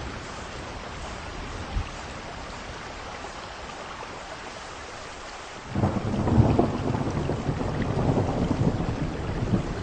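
Steady heavy rain, with a roll of thunder breaking in suddenly a little past halfway and rumbling on.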